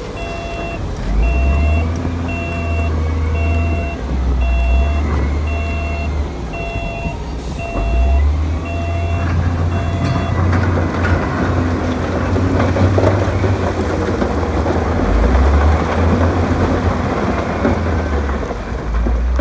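Heavy earthmoving machine's diesel engine running under load with a low rumble, its reversing alarm beeping about once a second and stopping about halfway through, after which the engine works harder.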